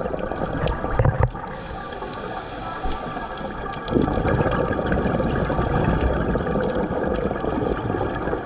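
Scuba diver's regulator breathing recorded underwater, with exhaled bubbles gurgling: a short burst about a second in, then a longer, louder bubbling stretch from about four seconds in.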